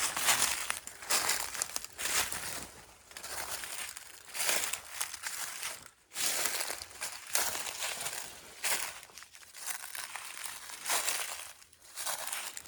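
Footsteps crunching through dry leaf litter and brush rustling against clothing as a person pushes through dense undergrowth, in irregular crackling bursts about once or twice a second.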